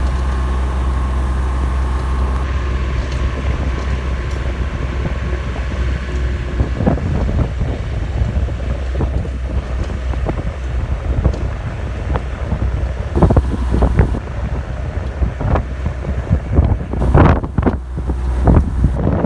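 Kubota RTV 1100 utility vehicle's three-cylinder diesel engine running steadily while plowing snow, with wind buffeting the microphone. From about seven seconds in, irregular short knocks and rushes come through over the engine.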